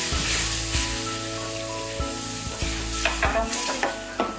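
Milk sizzling as it meets a hot roux of flour and ghee, while a wooden spatula stirs and scrapes the pan; the sizzle fades as the sauce takes up the milk.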